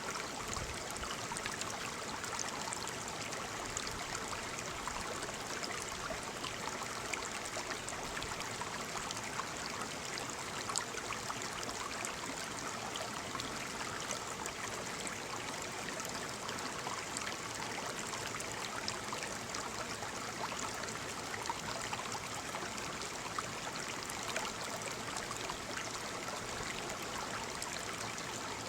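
Waterfall: a steady rush of falling water, thick with small splashes.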